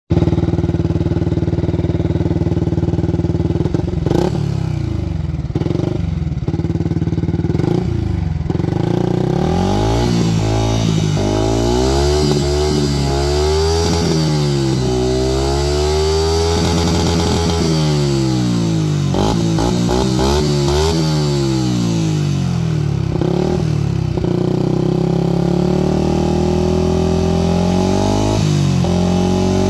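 Yamaha YZF-R125's single-cylinder four-stroke engine on its stock exhaust, idling steadily for the first few seconds, then revved up and down again and again with the throttle, blipped repeatedly in the middle, and revved again near the end.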